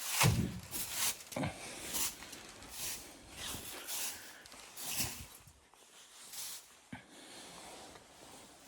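Footsteps crunching in snow, roughly two steps a second, growing fainter as the walker moves off.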